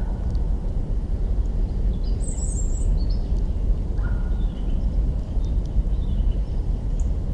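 Campfire burning with a steady low rumble and a few sharp crackles from the wood, while birds call: a short high call about two seconds in, then lower calls and faint chirps.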